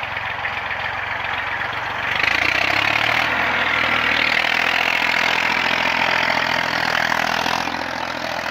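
Tractor diesel engine running steadily, getting louder about two seconds in as it comes under more power.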